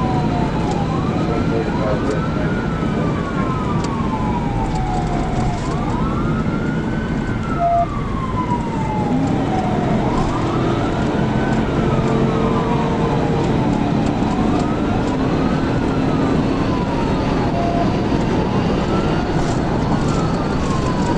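Police cruiser siren in a slow wail, rising and falling every few seconds, over the loud rush of road and wind noise of a cruiser in a high-speed pursuit.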